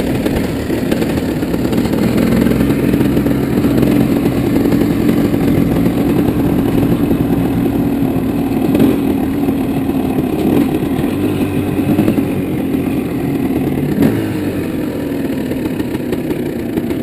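Off-road vehicle engine running under way, its pitch rising and falling a little with the throttle, with a few short clattering knocks.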